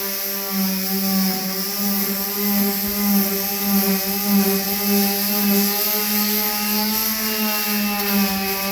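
Power sander running steadily against a car's sheet-metal body: a constant motor hum with a high, rough sanding hiss as coarse 45-grit paper strips old finish and adhesive.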